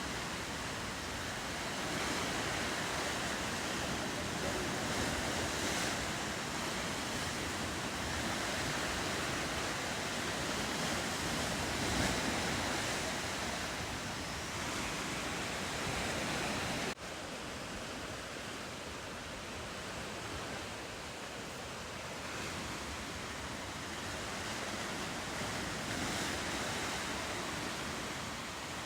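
Ocean surf washing steadily along a rocky shoreline, with wind. About two-thirds of the way through it cuts off suddenly and resumes a little quieter.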